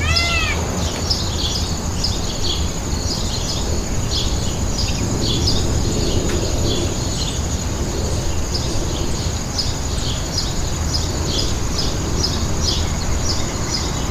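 Small birds chirping, many short high chirps coming in clusters over steady background noise with a constant high-pitched tone and a low hum. A repeated call that rises and falls in pitch ends just after the start.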